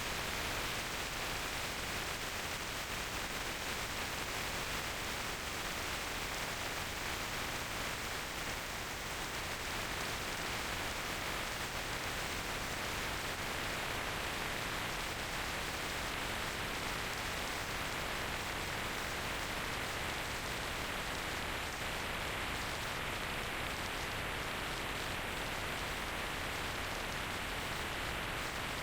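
Steady rush of wind and road noise from riding a motorcycle at speed, an even hiss with no engine note standing out.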